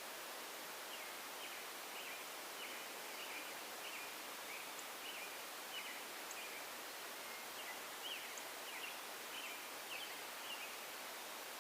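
A bird chirping in a long, irregular series of short, quick notes over a steady background hiss.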